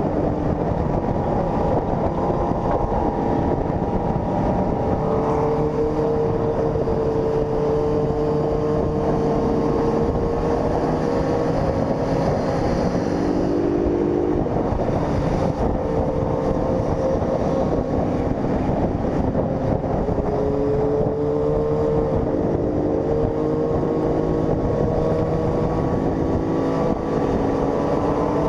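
Honda CG 160 Fan's single-cylinder engine running at road speed, its pitch slowly rising and easing off with the throttle, over wind rush.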